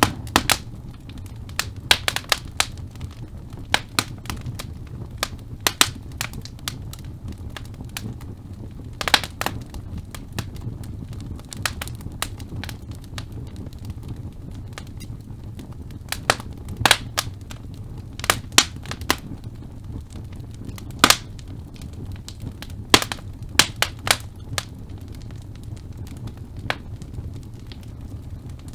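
Wood logs burning in a fireplace: a steady low rumble of flame with irregular sharp crackles and pops, some in quick clusters.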